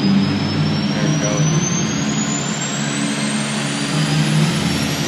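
Monster truck engine running loudly in an arena, with a thin high whine rising slowly in pitch.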